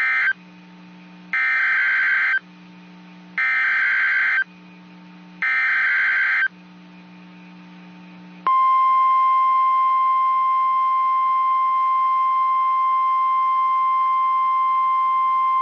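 NOAA Weather Radio emergency alert signal for a tornado warning. First come the short digital SAME header bursts, each about a second long with a second's gap. About eight and a half seconds in, the steady single-pitch warning alarm tone starts and holds.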